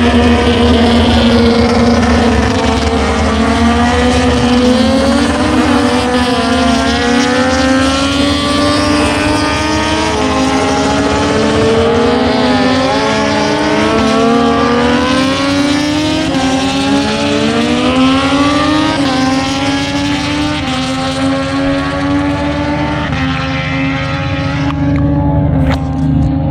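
MotoGP racing motorcycles running on the track: several high-revving engines overlapping, their pitch rising in steps and falling as they accelerate and pass, over a steady low rumble.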